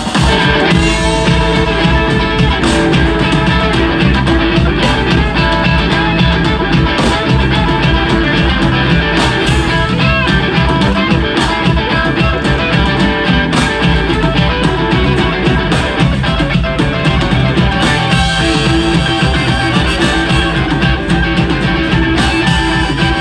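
Blues band playing an instrumental passage, guitar over bass and drums.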